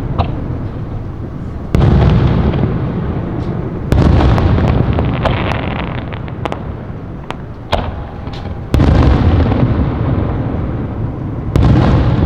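Aerial fireworks going off: four loud booms, each dying away in a long echoing rumble. Between the second and third there is a quick run of sharp crackling pops.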